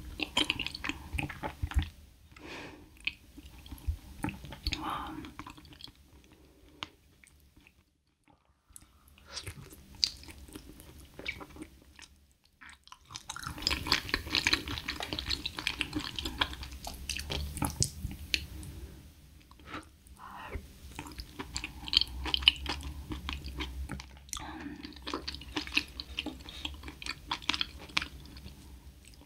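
Close-miked mouth sounds of a person chewing soft porridge with sea urchin roe: wet smacking and small clicks that come in bursts, with short pauses between mouthfuls.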